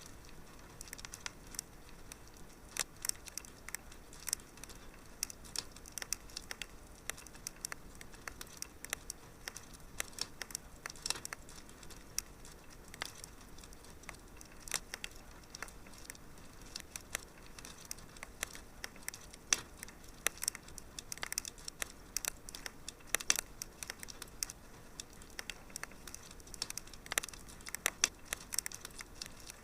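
Wood fire crackling: many sharp, irregular pops and snaps over a faint steady hiss.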